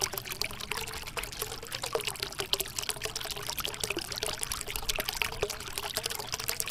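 Water from a small pump-fed tabletop waterfall fountain trickling and splashing steadily, with many small irregular drips.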